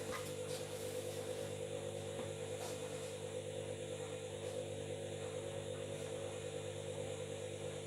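Washing machine running steadily, its motor giving a constant hum and whine at an unchanging pitch.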